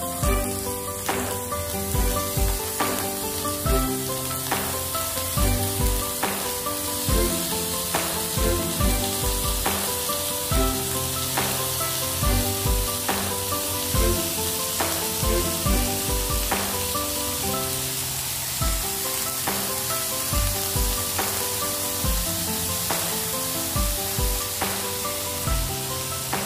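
Background music with a steady beat, over a steady sizzle of marinated chicken skewers frying on a hot ridged grill pan. The sizzle comes up about a second in.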